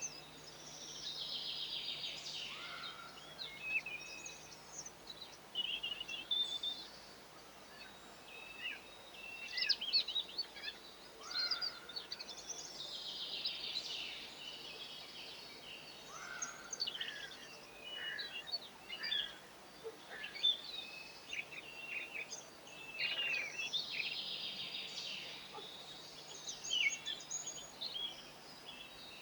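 Garden songbirds chirping and singing, many short calls and sweeping song phrases overlapping, with a similar burst of song coming back about every eleven seconds.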